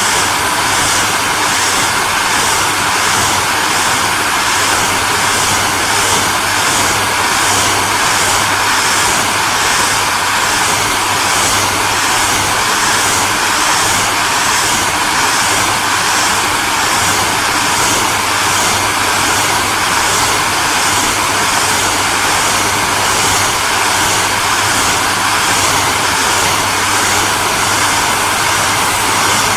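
Hair dryer running steadily: a constant rush of air with a low motor hum beneath, and a slight regular pulsing in the high hiss.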